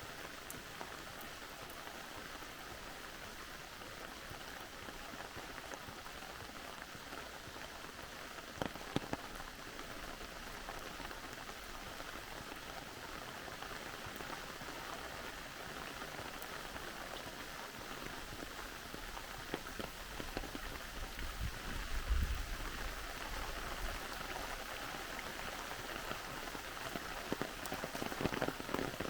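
Steady rain falling, with a few sharper drop-like taps scattered through and a dull low thump about 22 seconds in.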